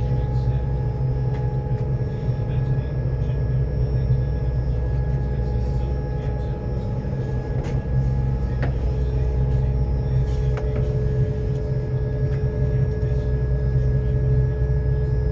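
Car ferry's engines running: a steady low rumble with a steady hum above it, and a few faint clicks.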